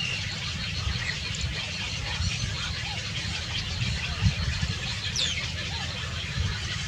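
A few faint bird chirps, including one sharp falling chirp about five seconds in, over a steady low rumble and hiss.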